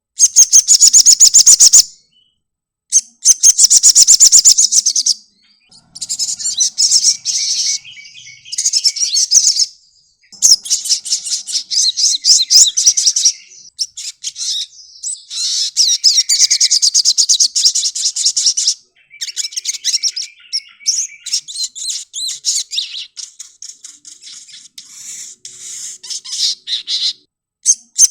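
Sogon, a sunbird, singing: loud, very high, rapid twittering phrases of a few seconds each, broken by short pauses.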